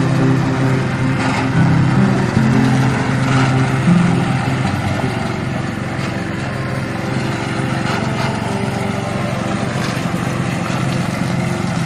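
Petrol engine of a remote-controlled robotic lawn mower (13 hp Tosaka) running steadily, with background music over the first four seconds.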